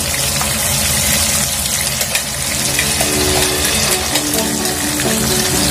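Blended chili paste sizzling as it is stir-fried in hot oil in a pan, over background music that comes up more strongly in the second half.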